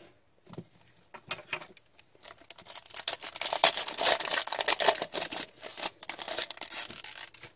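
Trading cards and their pack wrapper being handled: rapid rustling and clicking, scattered at first and growing dense and steady from about a third of the way in.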